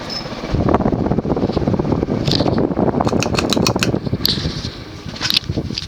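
1984 Union Gulf Star ceiling fan, with a cast-iron spinner motor and Casablanca blades, running on high. From about half a second in, a loud, rough rush of moving air comes in, with scattered clicks over it.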